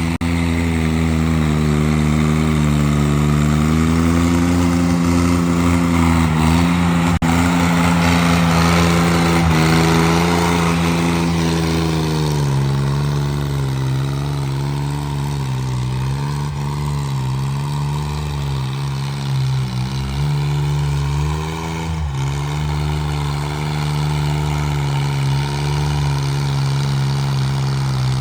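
Engine of a homemade 26 hp tractor running steadily. Its speed wavers a little and drops slightly about twelve seconds in.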